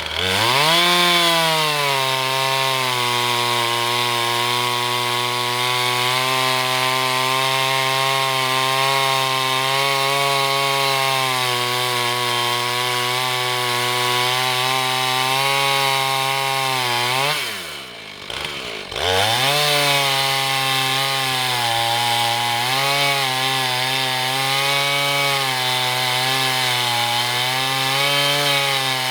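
Husqvarna 445 two-stroke chainsaw running at high revs, ripping through an oak log in an Alaskan chainsaw mill, its pitch wavering as the load changes. About two-thirds of the way through, the throttle is let off: the engine speed drops sharply, then it revs back up and the cut goes on.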